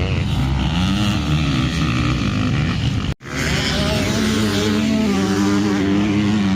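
Motocross motorcycle engines revving on a dirt track, their pitch rising and falling as the riders open the throttle and shift. There is a sudden brief break in the sound about three seconds in.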